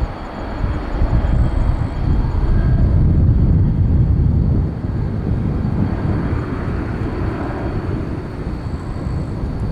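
Boeing 767-300ER's twin jet engines at takeoff power, a heavy low rumble that swells to its loudest about three to four seconds in, then eases slightly and holds.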